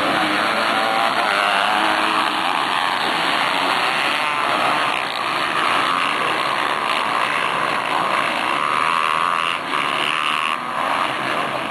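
Motocross motorcycle engines revving on the track, loud and continuous, their pitch rising and falling.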